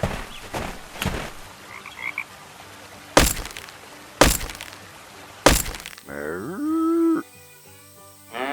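Cartoon sound effects: three sharp cracks about a second apart, then a long pitched call that slides down and holds.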